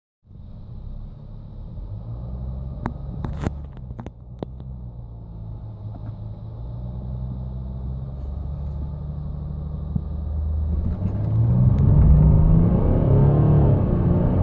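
Mercedes E350 CDI's 3.0-litre V6 diesel accelerating hard under full load, its low engine note stepping up and dropping back again and again as the automatic gearbox shifts through the gears. The sound grows louder throughout, loudest from about eleven seconds in, with a few sharp clicks around three to four seconds in.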